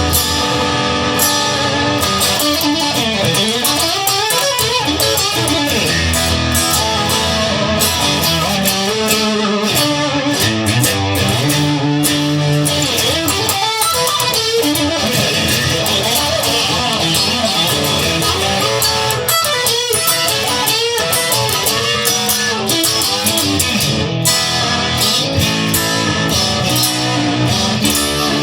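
Instrumental rock passage led by electric guitar, with bending, sliding lead notes over strummed guitar and bass.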